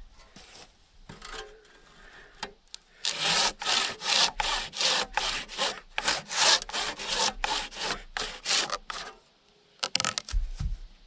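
Handsaw ripping lengthwise along the grain of a log, rapid back-and-forth strokes, soft at first and then loud and fast from about three seconds in. Near the end the sawing stops, and a short clatter with a low thump follows.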